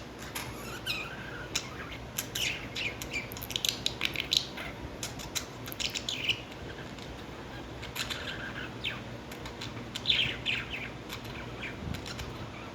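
Lovebirds chirping and chattering in quick, shrill, irregular bursts, with the busiest flurries about a third of the way in and again near the end.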